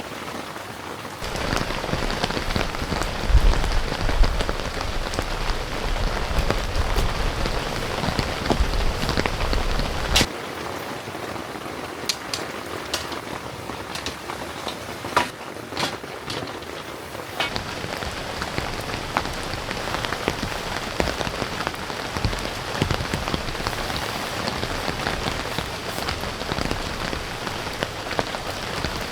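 Heavy rain falling steadily, with scattered sharp drips. The sound changes abruptly about a second in, around ten seconds in and again around seventeen seconds; the loudest stretch, up to about ten seconds, carries a low rumble.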